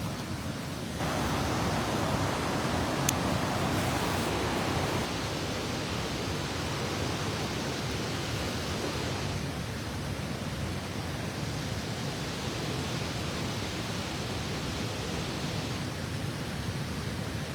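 Steady rushing of a waterfall and river current, an even hiss and rumble that gets a little louder about a second in.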